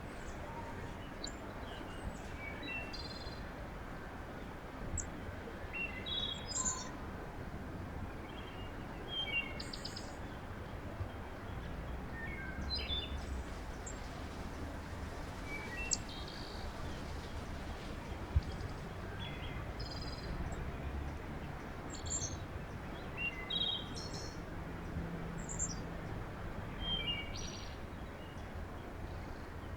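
Small birds chirping, with short call notes every second or two over a steady low background rumble. A single sharp click about eighteen seconds in.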